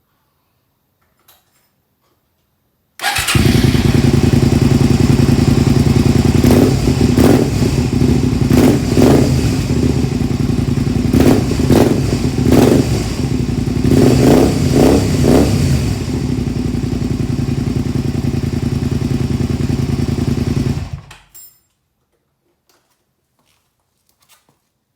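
Suzuki SV400S V-twin with a LeoVince SBK slip-on muffler starting up about three seconds in and idling, with the throttle blipped several times in three clusters. The engine then idles steadily and is shut off near the end.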